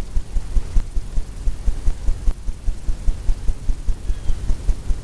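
Oil-paint brush dabbing and stroking on a stretched canvas: a quick, irregular run of low thumps, several a second.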